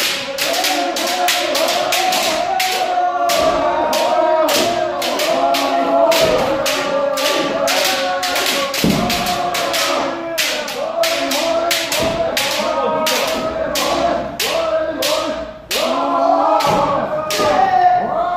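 Kendo practice: bamboo shinai cracking against armour again and again, several strikes a second from many pairs at once, over constant loud kiai shouts from the practitioners.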